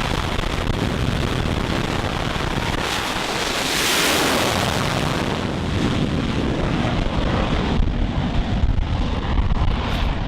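Carrier jet's engines at high power on the flight deck, a loud rushing noise that swells about four seconds in, with heavy wind buffeting on the microphone.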